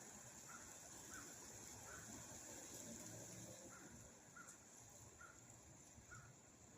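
Very quiet: faint wind rumble with a steady hiss. Over it come about seven short, faint chirps at the same pitch, roughly one a second.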